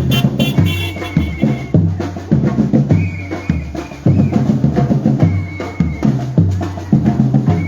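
Batucada samba percussion band playing: deep bass drums hit in a steady rhythm under rolling snare drums.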